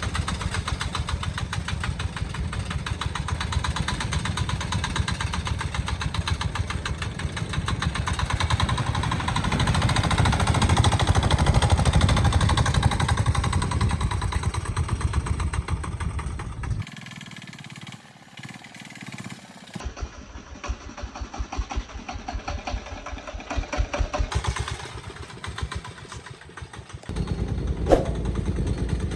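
Small engine of a homemade vehicle running, which cuts off abruptly about 17 seconds in. Quieter irregular clattering follows, and the engine is heard again near the end.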